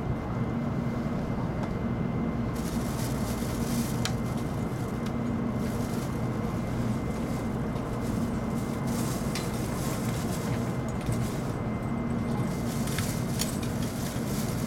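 Steady low hum inside a stationary N700-series Shinkansen car waiting to depart, with a few faint clicks.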